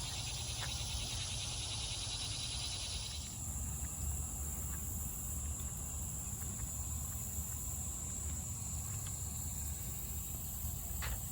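Insects droning steadily at a high pitch, one part of the chorus cutting off about three seconds in, over a low rumble.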